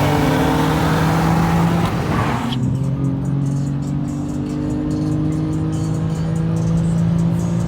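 BMW F80 M3 engine pulling hard under acceleration, its pitch climbing slowly, with music playing along. About two and a half seconds in, the rushing hiss above the engine cuts off abruptly and the engine carries on.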